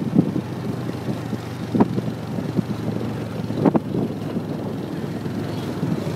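A motorbike being ridden, its engine running under a steady wind rumble on the microphone, with two short knocks about two and three-and-a-half seconds in.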